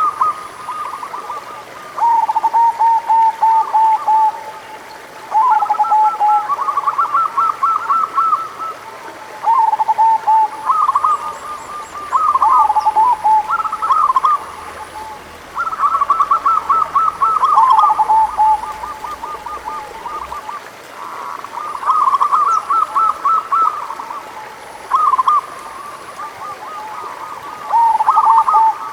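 Local zebra doves (perkutut) cooing in repeated phrases. Each phrase is a quick run of short staccato coos, heard at two slightly different pitches, one phrase following another after brief pauses.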